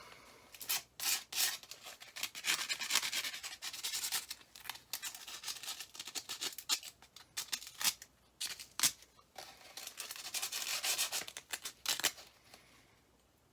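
Sandpaper rubbed by hand over a furnace flame sensor's metal rod in irregular scratchy strokes with short pauses, scouring it clean so it will sense the flame properly.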